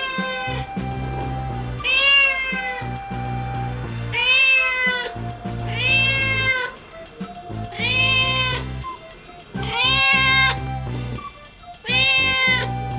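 Young cat meowing loudly and repeatedly, about one long meow every two seconds, each call rising and then falling in pitch: begging for food. Background music with steady low notes plays underneath.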